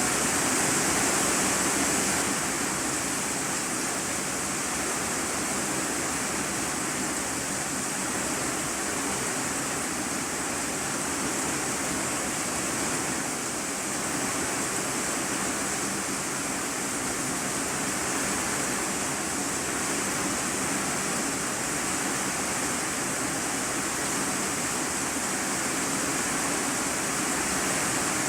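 Steady heavy rain drumming on a corrugated iron-sheet roof, heard from the room below as an even, unbroken hiss.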